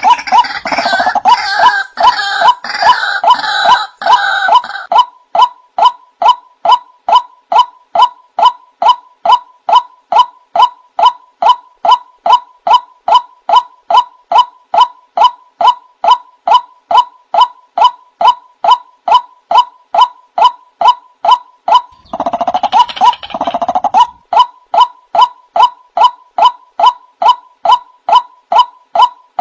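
Male white-breasted waterhen calling: a steady, monotonous run of identical 'wak' notes, about two a second. Harsh, jumbled croaking breaks in over the notes at the start and again briefly about three quarters of the way through.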